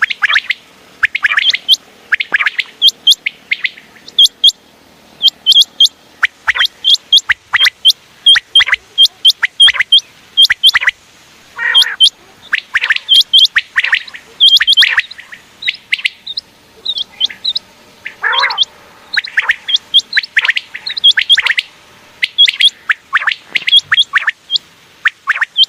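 Common quail calling: a rapid run of short, sharp, high chirps repeated over and over in clusters with brief gaps, with a couple of longer falling notes in between.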